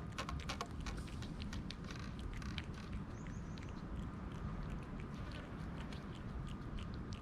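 Cats eating, with a run of quick, short clicks from chewing and mouthing the food that thins out after the first few seconds, over a steady low background rumble.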